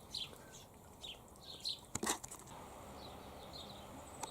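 Small birds chirping in the background: short, high chirps, each falling in pitch, several in the first two seconds, with a single sharp knock about two seconds in.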